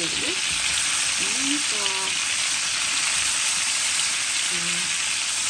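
Flattened young chickens frying in oil in a stainless steel pan: a steady sizzle.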